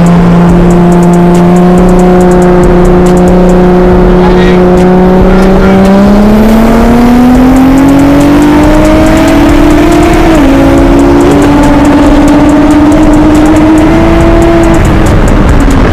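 Loud car engine holding a steady speed, then pulling hard from about six seconds in, its pitch rising. The pitch drops sharply at a gear change about ten seconds in, rises again, and eases off near the end.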